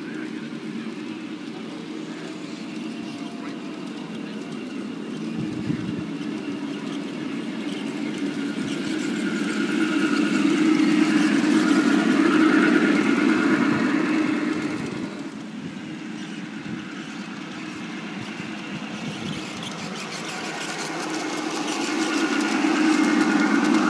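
A train running along the track. It grows louder to a peak, fades, then grows louder again as it passes close near the end.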